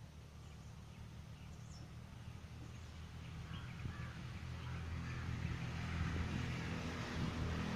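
Faint, scattered bird chirps over a low rumble that grows steadily louder.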